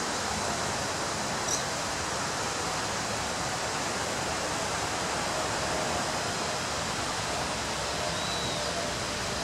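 Ocean waves breaking on a beach: a steady, even wash of surf noise.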